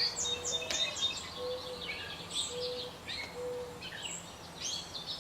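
Small songbirds chirping and calling: a busy mix of short, high chirps and quick falling notes.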